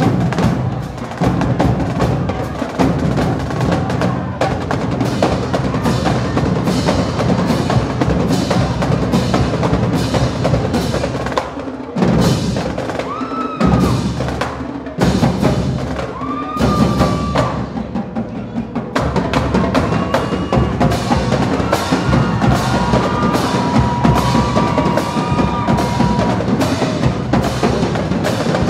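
High school marching band drumline playing a steady dance-routine beat on snare and bass drums, with a few short held notes joining in around the middle.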